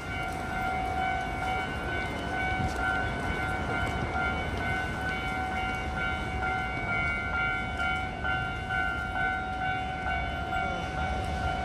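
A train running past, a steady low rumble with several held high tones over it.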